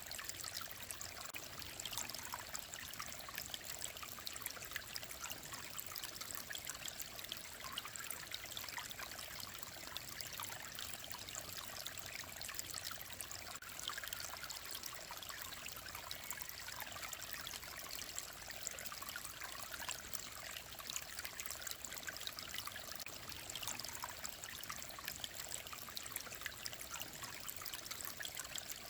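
Clear mountain stream running over rocks: a steady babble and trickle of water with many small splashes.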